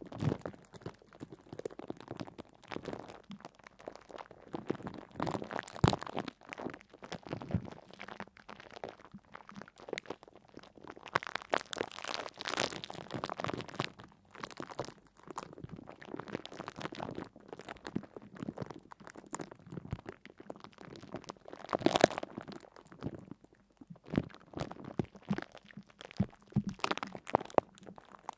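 Irregular crackling and crunching sounds with scattered sharper clicks, uneven in loudness and without any steady rhythm.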